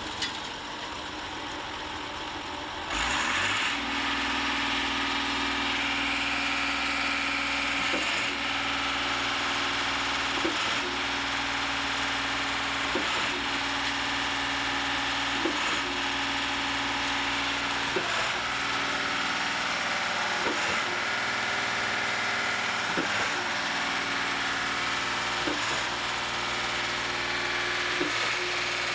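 Diesel engine of a ready-mix concrete truck running under load during a slab pour. It speeds up and gets louder about three seconds in, then holds steady, with a short knock repeating about every two and a half seconds.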